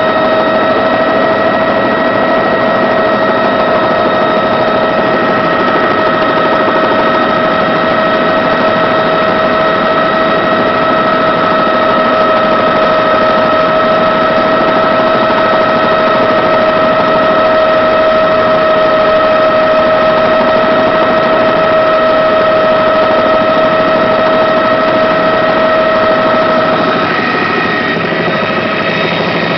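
Helicopter in flight: steady, loud engine and rotor noise with a constant whine on top. Near the end the main whine fades and the noise eases slightly.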